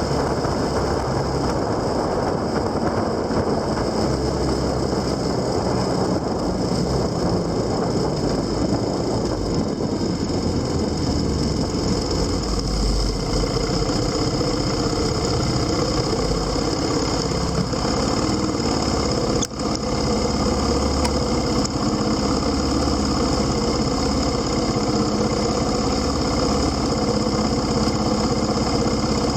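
Motorcycle engine running under way with wind and road noise, settling about ten seconds in to a steadier, even engine note like idling. A brief dropout in the sound about twenty seconds in.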